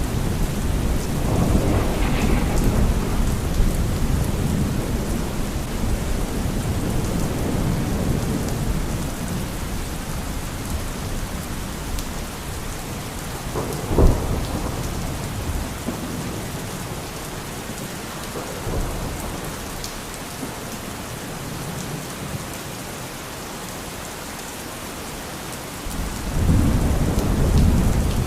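Thunderstorm: steady heavy rain with rolling thunder. The rumble fades over the first half, a sharp thunder crack comes about halfway, and a fresh rumble of thunder breaks in near the end.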